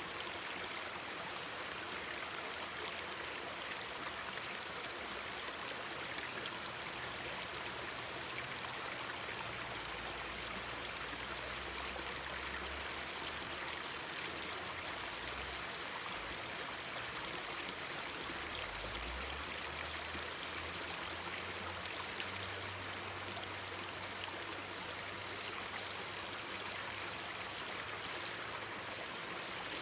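Mountain stream flowing and babbling steadily, with a faint low hum coming in about a third of the way through.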